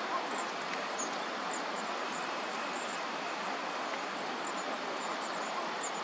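A small wild bird giving short, very high, thin calls, a few scattered through each second, over a steady rushing background noise.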